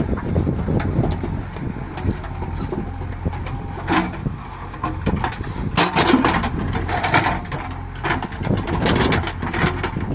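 JCB backhoe loader's diesel engine running steadily, with a series of clattering knocks of stone being loaded, the clearest about 4, 6, 7 and 9 seconds in.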